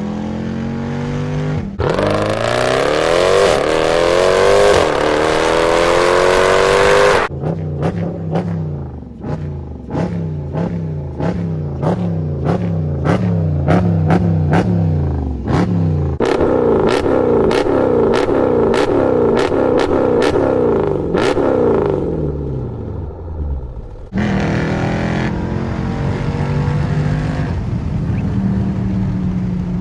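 SRT car's engine accelerating hard several times, its pitch climbing and dropping back at each gear change, with a run of sharp pops and clicks during one pull. It then eases off and settles into steadier cruising.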